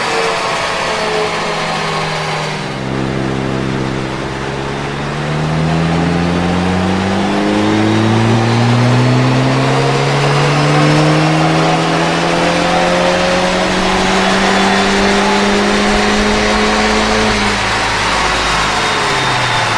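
VW Golf GTI Mk8's 2.0-litre turbocharged four-cylinder engine and exhaust at full throttle on a chassis dyno. The pitch climbs through the gears, with upshifts about two and a half and seven and a half seconds in, then falls near the end as the throttle is lifted.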